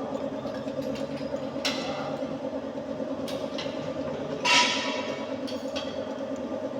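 Metal clanks of a wrench on a car's wheel nuts as they are loosened. The loudest clank, about four and a half seconds in, rings briefly, over a steady machine hum.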